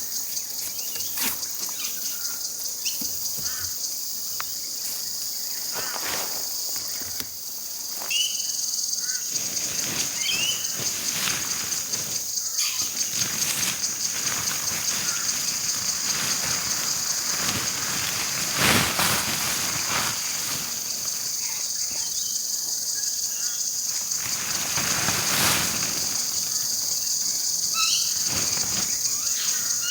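Steady, high-pitched insect chorus with short bird chirps over it, and now and then brief rustling and knocking from handling camping gear during tent setup.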